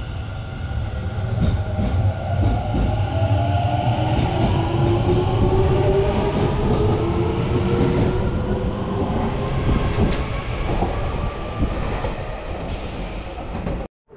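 Hanshin 5500 series electric train pulling out of the station: the whine of its traction motors rises steadily in pitch as it accelerates, over the rumble and clatter of the wheels on the rails.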